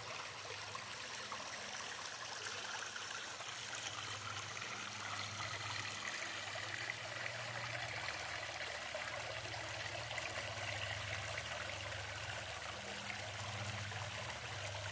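Small creek and little waterfall flowing, a steady rushing and trickling of water with a low, uneven rumble underneath.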